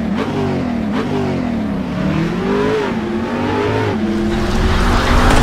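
Infiniti Q70 5.6's V8 engine being revved in a series of quick blips, its pitch rising and falling each time. Near the end it holds a higher, steadier pitch and gets louder.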